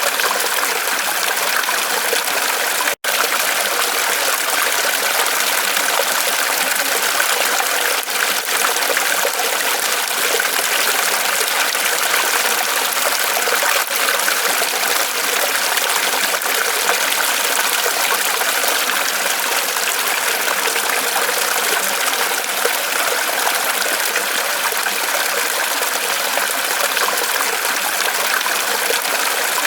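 Small waterfall of water trickling and splashing off a tree trunk, steady and unbroken except for a momentary dropout about three seconds in.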